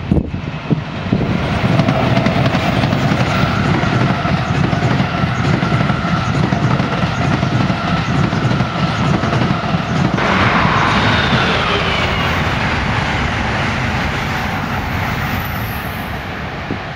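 NJ Transit commuter train of multilevel coaches, hauled by an electric locomotive, passing close by: a loud, steady rumble and clatter of wheels on rail with a faint steady whine, the sound turning brighter about ten seconds in.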